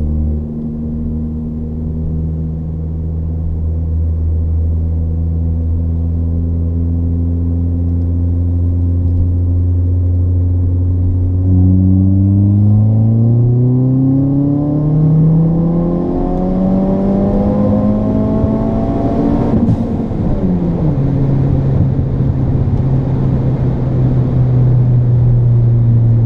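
Ford Fiesta ST's turbocharged four-cylinder engine, running a first E30 tune on an upgraded X-47R turbo, heard inside the cabin. It cruises steadily, then about 11 seconds in makes a long hard pull in third gear, the engine note rising steadily for about eight seconds. A short sharp burst of noise follows as the pull ends, and the revs fall back to a steady cruise.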